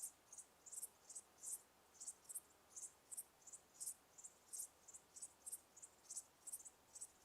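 Crickets chirping faintly: short, high-pitched chirps repeating about three to four times a second, with a faint steady hiss beneath.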